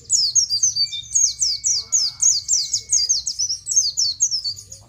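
White-eye (pleci) singing a fast, continuous run of high chirps, each falling in pitch, about six a second. A thin steady whistle-like tone runs under it for about two seconds in the middle.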